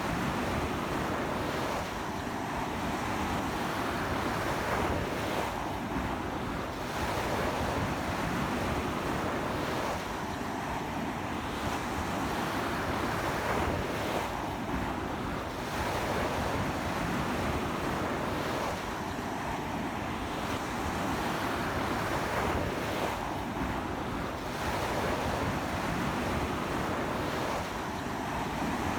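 Sea waves breaking and washing on a beach in a steady rush that swells and eases every few seconds. A strong sea wind buffets the microphone.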